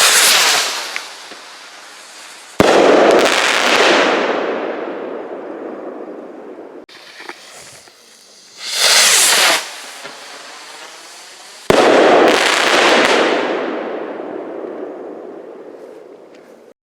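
Fireworks going off: two sharp bangs, each followed by a crackling hiss that fades over several seconds, with hissing bursts at the start and in between.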